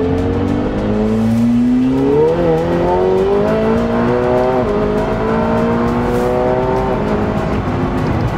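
A Stage 2 tuned McLaren 720S's twin-turbo V8 pulling hard under full throttle. The engine note climbs in pitch and drops back at each upshift, three times.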